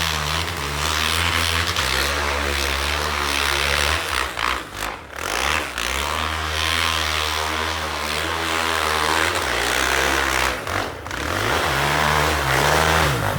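Single-cylinder off-road engine running under throttle as it is ridden, revving up and down, with two drops and climbs in revs, about four seconds in and near the end.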